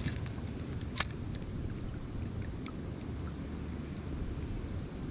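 Steady low rumble of wind on the microphone, with a single sharp click about a second in and a few faint ticks.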